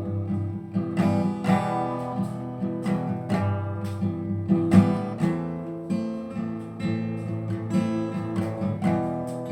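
Acoustic guitar strumming chords, each stroke ringing on, with no singing.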